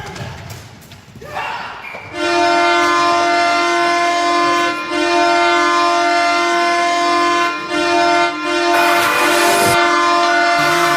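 Ottawa Senators goal horn sounding: one long, steady, loud blare starting about two seconds in, briefly dipping twice, signalling a goal.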